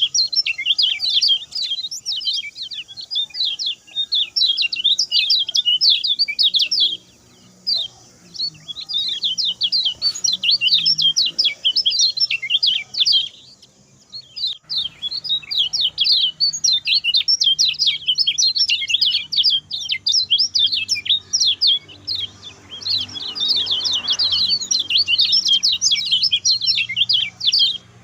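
Lemon-bellied white-eye singing its fast song: long runs of rapid, high twittering notes, broken by short pauses about seven and fourteen seconds in.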